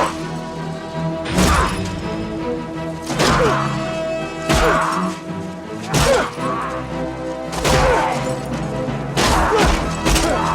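Film soundtrack: a steady music bed with a heavy hit about every second and a half, punch and impact sound effects from a fistfight.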